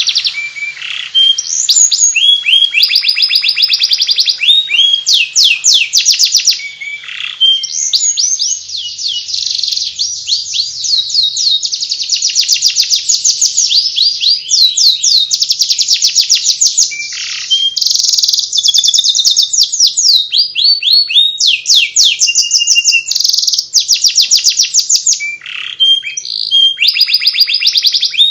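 Canary singing continuously in rapid trills of fast, repeated sweeping chirps, high-pitched, with brief breaks between phrases: the soft 'ngeriwik' warbling song.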